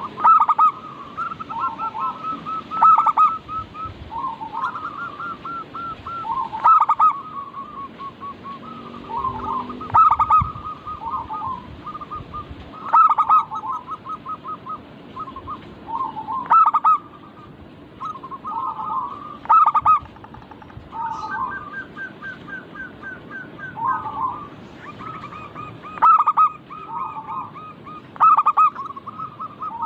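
Zebra doves (perkutut) singing: continuous phrases of quick rolling coos, broken every three to four seconds by a loud, sharp note, with the phrases running into one another. This is the call used to lure other perkutut into song.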